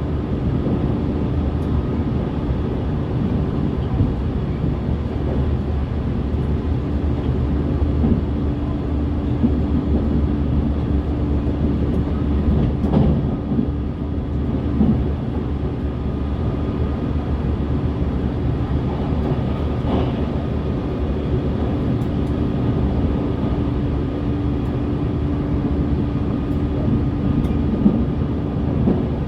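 Interior running noise of a JR Central 383 series limited express electric train travelling at a steady speed: a dense low rumble with a steady hum and a few faint knocks.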